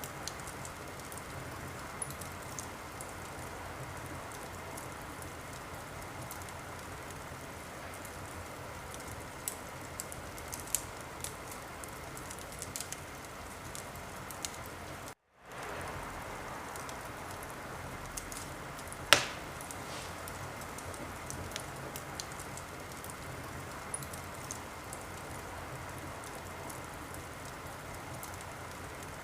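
Fireplace fire crackling: a steady hiss dotted with small pops, and one sharp loud pop about two-thirds of the way through. The sound cuts out to silence for a moment about halfway through.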